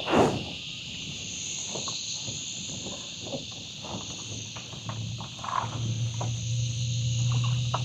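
Chorus of cicadas droning steadily and high-pitched, with a loud knock just at the start and light clicking of a fish and tackle being handled in a kayak.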